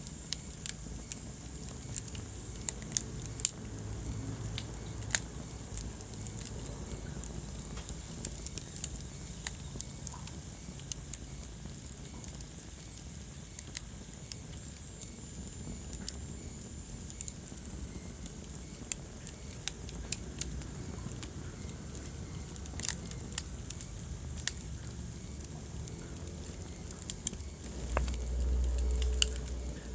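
Wood fire crackling in a fireplace: irregular sharp pops and snaps over a steady hiss. A brief low rumble swells near the end.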